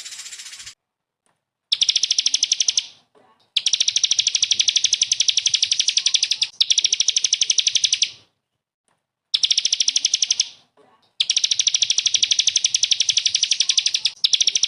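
A small songbird's rapid-fire trill: bursts of one to three seconds, each a very fast run of identical high notes, repeated with short gaps. A brief, hissier high call ends under a second in.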